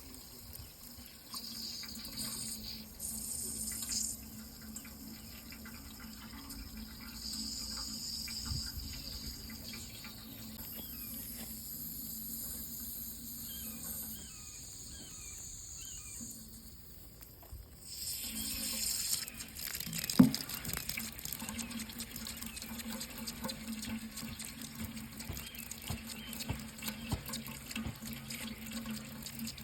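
Water running steadily from a tap into a sink, with a steady low hum under it. The flow sounds thinner and quieter for a few seconds past the middle, and there is one sharp click about twenty seconds in.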